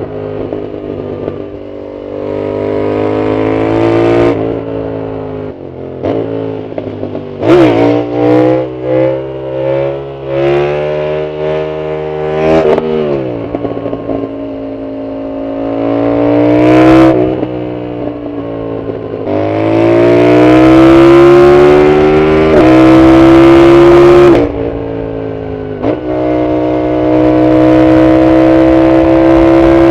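Yamaha MT-07's 689 cc CP2 parallel-twin through an Arrow full exhaust, accelerating hard and shifting up through the gears, the pitch climbing then dropping at each shift. About a quarter of the way in comes a run of quick throttle blips, the revs jumping up and falling back several times.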